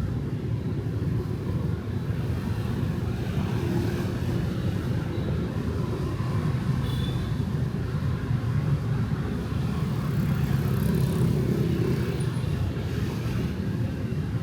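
Steady street traffic with motorbikes, a continuous low rumble of engines and tyres with no single vehicle standing out.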